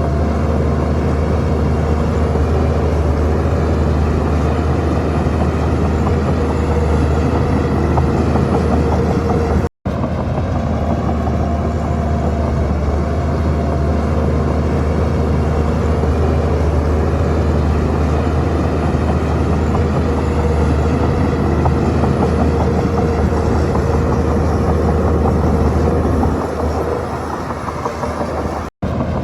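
Heavy diesel engine of a Shantui crawler bulldozer running steadily under work, a continuous low drone. The sound cuts out for an instant about ten seconds in and again near the end.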